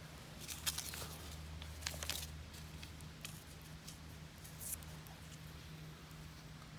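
Small clicks and rustles of camp cookware being handled, clustered in the first couple of seconds and once more near the end, over a steady low hum.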